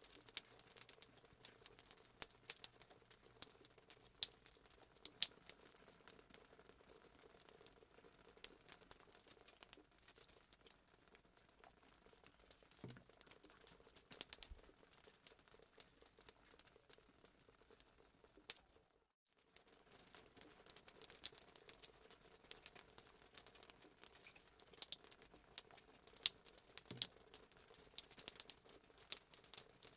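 Crackling fireplace sound effect: faint, irregular crackles and pops over a low steady hum, cutting out for a moment about nineteen seconds in.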